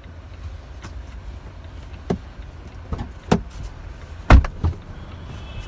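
Knocks and thumps of someone moving about inside a car's cabin, with a single heavy thump about four seconds in, over a low steady rumble.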